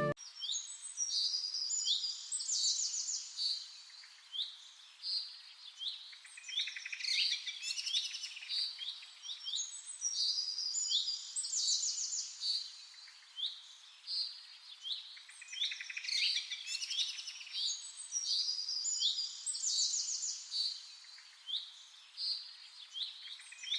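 Small birds chirping and singing: many short high calls and fast trills, coming in repeated clusters.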